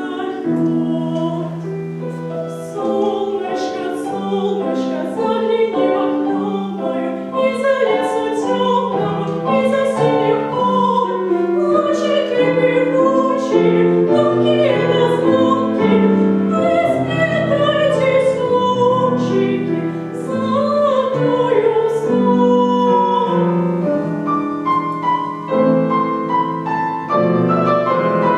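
A solo female voice singing in a classical style with vibrato, accompanied by piano.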